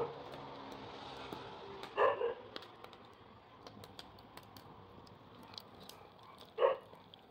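A dog barks twice, short single barks about two seconds in and near the end, over a faint background hiss with a few faint clicks.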